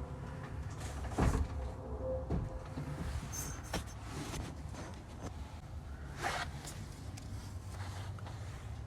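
A steady low hum with a few separate knocks and clunks, the loudest about a second in.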